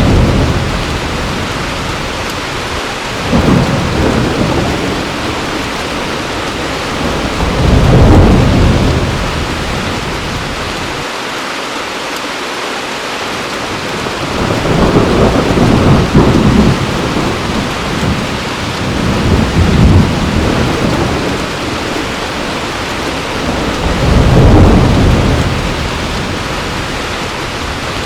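Heavy rain falling steadily, with thunder rolling low about six times, every few seconds.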